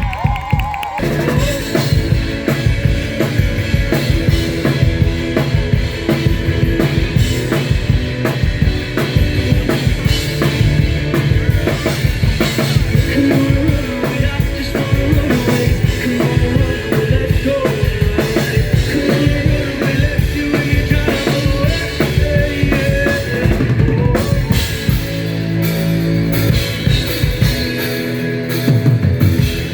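Live rock band playing an instrumental passage: a steady drum-kit beat with bass and guitar, a change in the arrangement near the end.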